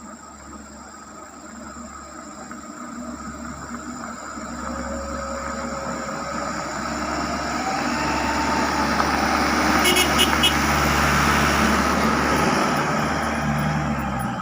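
Truck engine running and growing steadily louder, with a whine that rises in pitch about halfway through.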